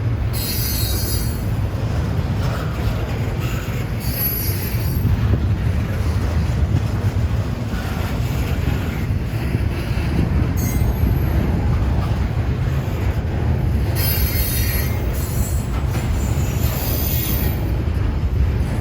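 Freight train rolling past: a steady low rumble of railcars, with the steel wheels squealing against the rails in short high-pitched bursts every few seconds.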